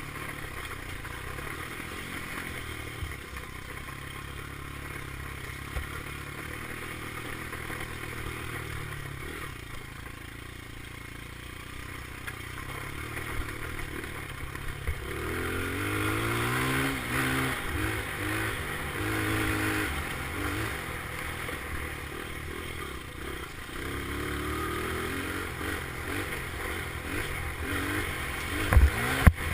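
Dirt bike engine revving up and down with the throttle, getting louder from about halfway through. Two sharp knocks near the end.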